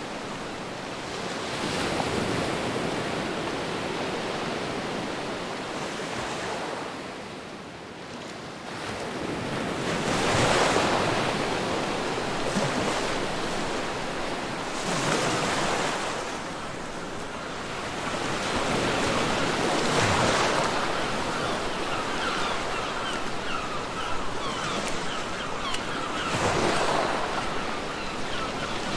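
Ocean surf breaking on a beach: a wash of waves that swells and fades again roughly every five seconds, with wind.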